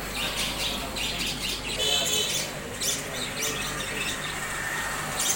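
A flock of pet birds for sale, chattering with many short, high calls overlapping.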